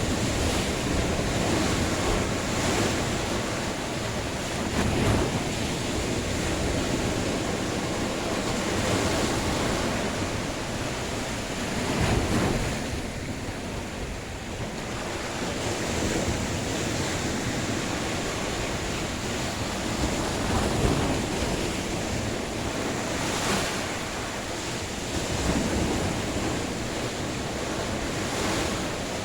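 Sea waves breaking and washing ashore, a steady rush of surf that swells in repeated surges, with wind buffeting the microphone.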